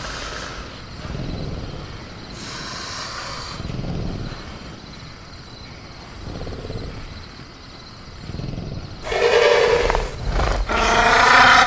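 Sound-effect velociraptor in a cage: low growls come about once a second, with a short hiss about three seconds in. From about nine seconds in it gives loud, raspy roaring calls. Faint crickets chirp steadily underneath.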